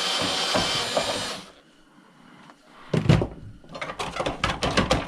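Power drill spinning as it backs out a Phillips screw, stopping about a second and a half in. After a short pause come irregular clanks and knocks of metal parts being handled.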